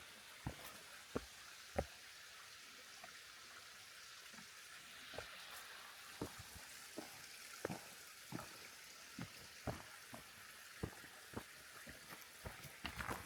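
Footsteps crunching on a gravel or stone path, light and irregular, about one to two steps a second, over a faint steady hiss of flowing water.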